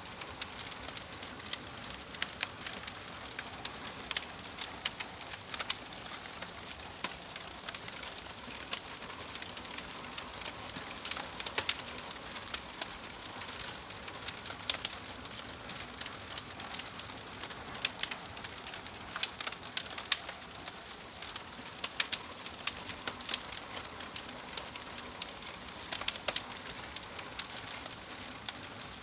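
Fire crackling: a steady hiss broken by frequent irregular sharp pops and snaps.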